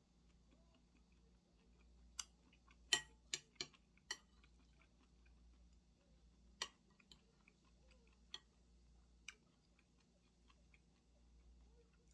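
Quiet room tone broken by scattered light clicks and taps, a quick run of four or five about two to four seconds in, then a few single ones.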